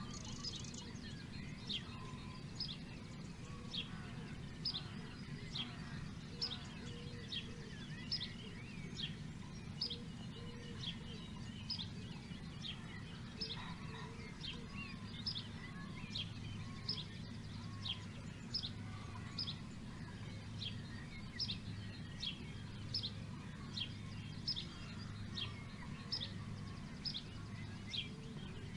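A bird repeating one short, high, downward-slurred call over and over, a little more than once a second, over a steady low rumble in the background.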